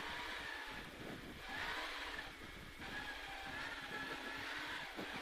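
Toyota Corolla KE25 rally car under way on a stage, heard from inside the cabin: engine and road noise, dipping in loudness for a moment about two seconds in.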